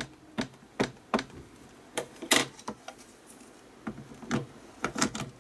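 Stamping tools being handled on a craft table: a dozen or so sharp, irregularly spaced taps and clicks, the loudest a little past two seconds in.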